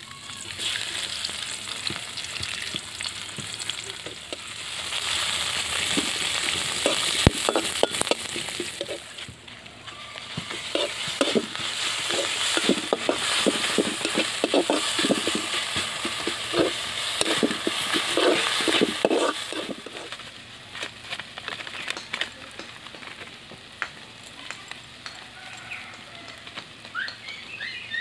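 Sliced onions frying in hot oil in a kadai over a wood fire, a steady sizzle, with a utensil scraping the pan as they are stirred. The sizzle dies down about twenty seconds in.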